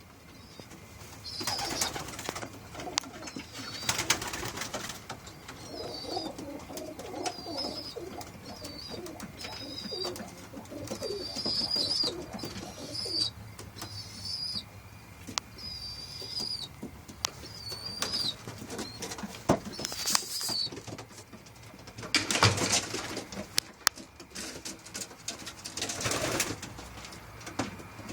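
Racing pigeons cooing in their loft, with a short high chirp repeated every second or two and a few louder rustling bursts, the biggest ones near the end.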